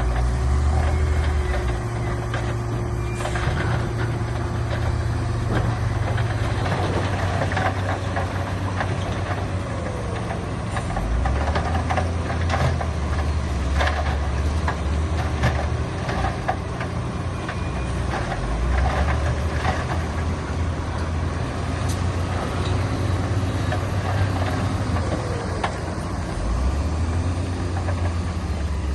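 Heavy diesel earthmoving machinery running at work, its deep engine drone swelling and easing several times as the load changes, with scattered clanks.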